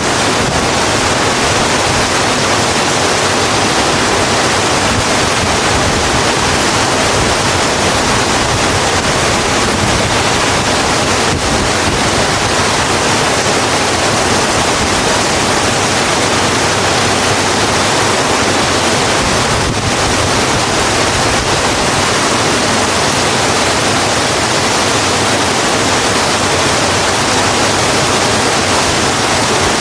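Steady, heavy rain falling on a road: a loud, even hiss that does not change.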